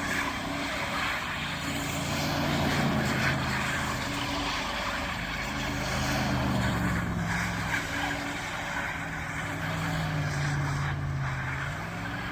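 Pickup truck engine revving while doing donuts in the snow, its note rising and falling several times under a steady hiss of noise.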